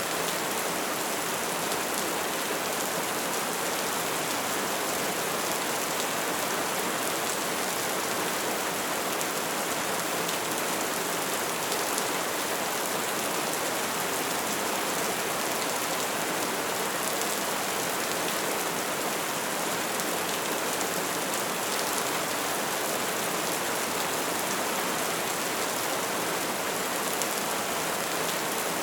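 Wood fire burning steadily: a constant hiss with many small, fast crackles and pops scattered through it.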